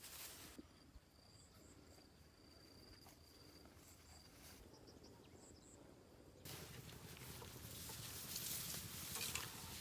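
Quiet outdoor ambience: a thin, high, steady insect buzz and a few short high chirps. About six and a half seconds in, a rushing, rustling noise starts and grows louder.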